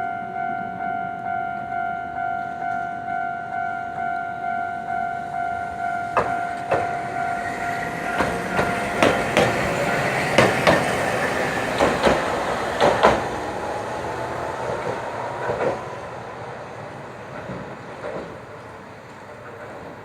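Railway level-crossing warning bell ringing about twice a second, cutting off about six seconds in. Then a Hankai tram passes, its wheels clacking over rail joints, with a faint rising motor whine, fading away near the end.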